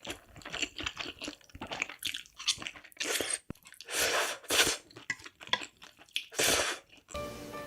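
Close-miked eating of spicy instant noodles, chewing in uneven wet bursts. Music starts about seven seconds in.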